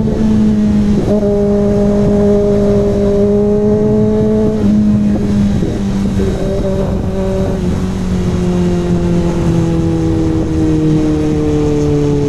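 Kawasaki ZX6R inline-four running through an SC Project CRT aftermarket exhaust while riding. The engine note holds fairly steady with a few brief dips, then slowly drops in pitch as the bike eases off.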